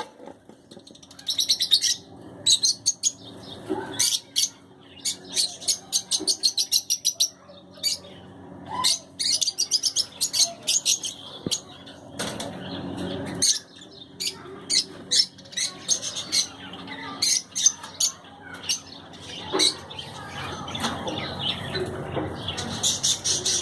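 Caged lovebirds and budgerigars chirping, with rapid runs of short, high, repeated notes throughout.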